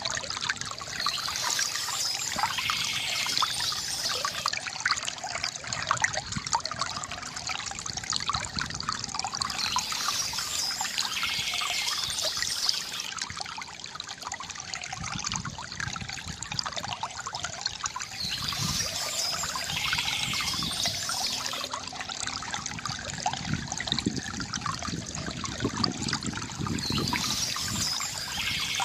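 River water gurgling and trickling over stones, with bird chirps coming back about every nine seconds.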